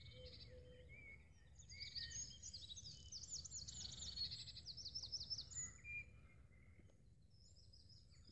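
Small birds singing: high chirps throughout, with a run of rapid, repeated trilled notes from about two seconds in for several seconds, over faint low background noise.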